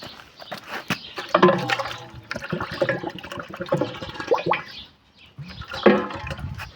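Water being poured, gurgling and splashing, in several bouts with a short pause about five seconds in.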